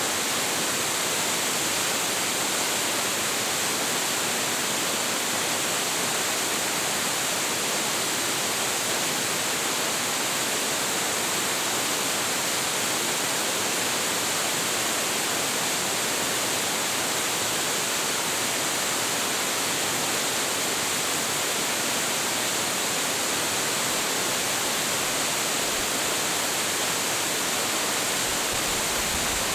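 Hiji Falls, a 25.7 m waterfall, pouring steadily into its pool: a constant hiss of falling water, strongest in the high range, with no changes.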